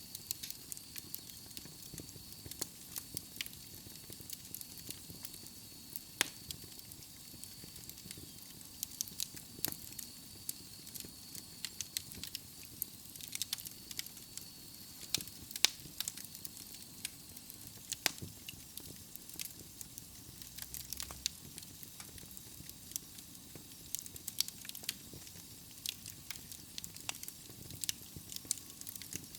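Wood logs burning in a fireplace, crackling with irregular sharp pops over a steady hiss, the loudest pops about halfway through. A faint, steady high-pitched whistle runs through the first half.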